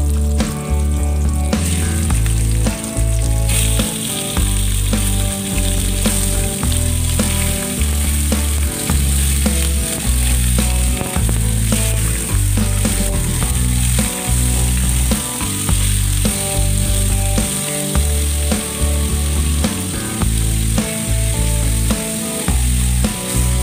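Chicken pieces and sliced onions sizzling in hot oil in a frying pan, the sizzle swelling about three and a half seconds in. Background music with a rhythmic bass line plays throughout.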